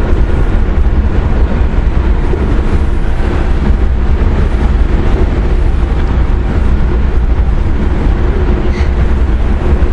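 Loud, steady wind buffeting the microphone on a moving ferry, a rushing rumble heaviest in the low end.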